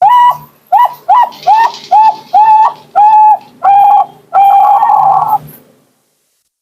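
Zebra dove (perkutut) of the Bangkok type cooing: a series of about nine clear notes, the later ones drawn out longer, ending in one long note.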